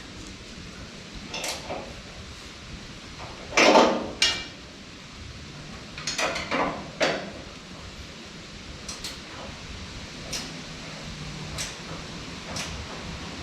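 Hand tools and metal parts on a Deutz tractor clinking and clanking as a fitting is tightened. The loudest clanks come about four seconds in, a cluster of knocks follows a couple of seconds later, and lighter ticks come after.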